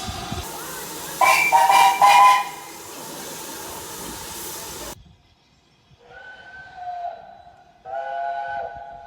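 Steam locomotive chime whistles sounding short blasts of a several-note chord, with steam hissing behind the first pair. Two blasts come about a second in; after a sudden cut, two more come in the second half, the last one longer.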